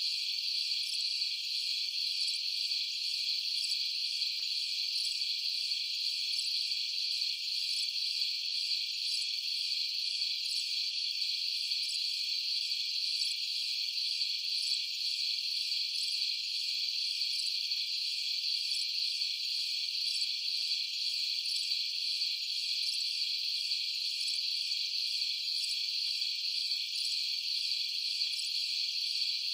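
Crickets chirring steadily in a dense night chorus, a continuous high trilling without pause.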